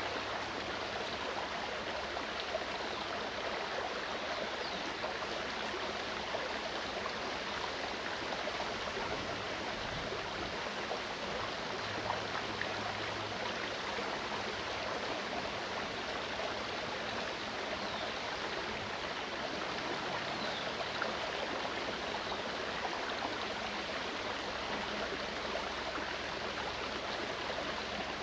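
Clear mountain stream flowing steadily, an even rush of running water.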